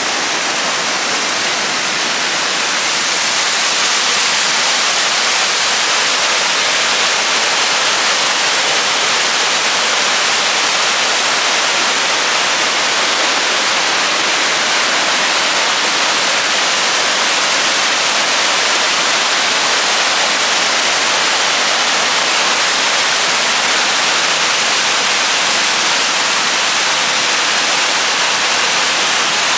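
Steady, loud rushing hiss with no rhythm or pitch, heaviest in the high range, swelling a little over the first few seconds and then holding even.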